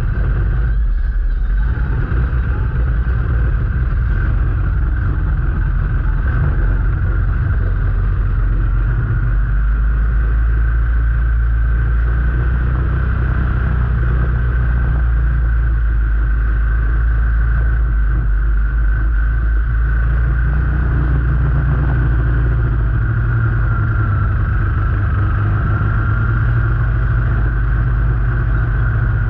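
Motor vehicle engine running steadily while under way, a constant low drone with a steady thin whine above it.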